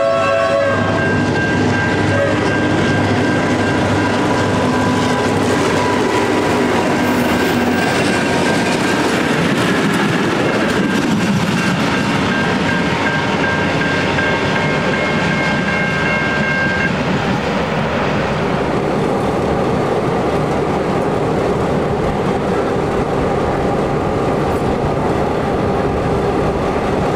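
Horn of Victorian Railways T class diesel locomotive T342 sounding briefly as its passenger train approaches. The train then passes with a steady rumble and wheel clickety-clack, while the level-crossing alarm rings steadily until about two-thirds of the way through.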